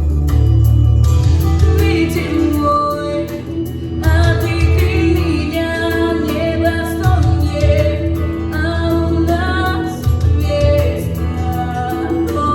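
A woman singing a Russian song over a backing track with a strong, steady bass line.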